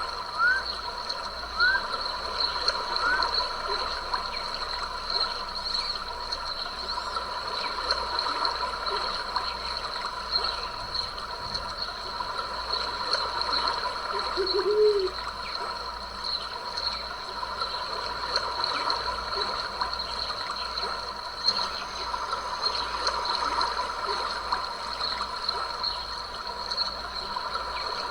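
A stream trickling and splashing, with a steady high chorus of calling animals over it. A few short rising chirps come in the first few seconds, and one brief lower call comes about halfway through.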